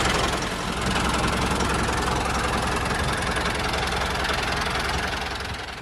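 Tractor engine idling steadily with a fast, even chug, starting to fade out near the end.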